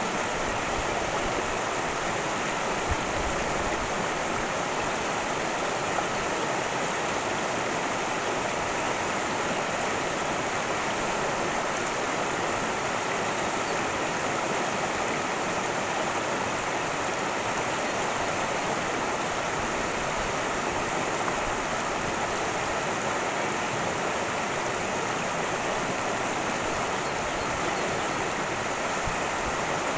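A mountain creek rushing and splashing over rocks in a steady, unbroken roar of water.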